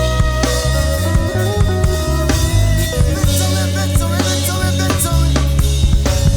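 Live worship band playing an instrumental passage: drum kit and bass with sustained, gliding melodic lines above.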